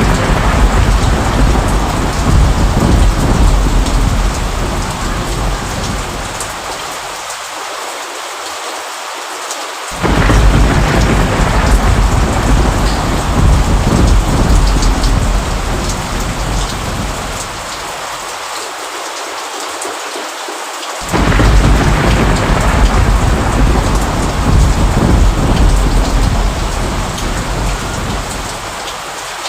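Steady rain with deep rolls of thunder. One roll is dying away in the first few seconds, and two more break in suddenly, about ten and twenty-one seconds in, each fading out over several seconds.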